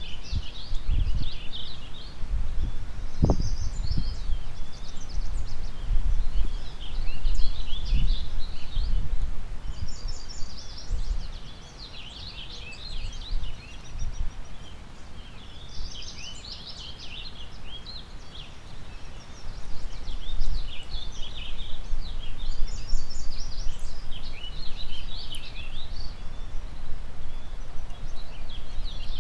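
A chorus of small songbirds chirping and twittering in overlapping bursts, over a low wind rumble that gusts and eases, dropping away for several seconds in the middle.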